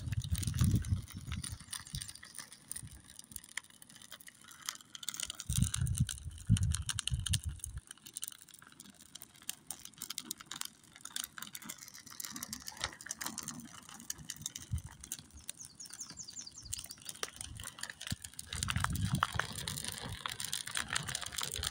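A small smoky smudge fire crackling with many sharp irregular pops and snaps, with low rumbles coming and going three times.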